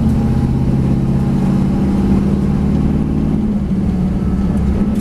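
V8 race car engine running at steady high revs, its pitch dipping briefly about three and a half seconds in before holding steady again.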